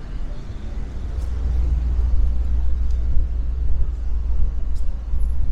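Low, steady rumble of outdoor city ambience, with a few faint ticks.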